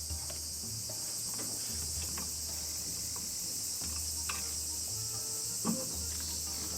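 Steady high-pitched chorus of insects chirping, with a low hum that comes and goes and a few light clicks and knocks, the loudest about six seconds in.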